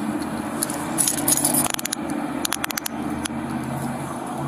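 Vehicle engine idling steadily, with two short runs of light metallic clicking and jingling, about a second in and again around three seconds in.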